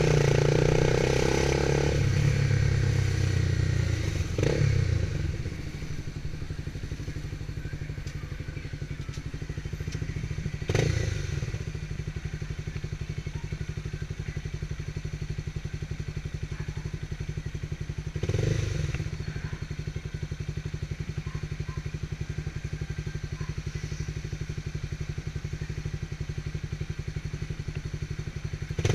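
Motorcycle engine running, louder for the first few seconds, then settling to a steady, evenly pulsing idle with a few brief rises.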